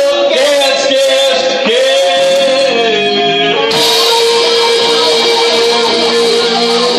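Live rock band playing, a voice singing over electric guitar. About halfway through, the band comes onto one long held note with a bright wash over it.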